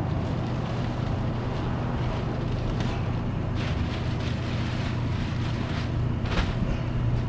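Vehicle engine running steadily as a low hum, with wind noise and a few brief rustles.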